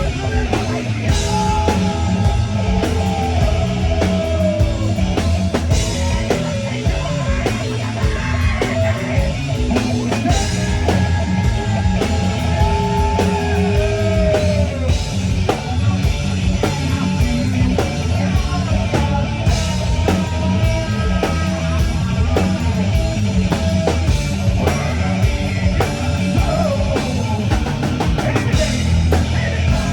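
Rock band playing live: a drum kit keeping a steady beat under guitar, with a gliding melody line over it.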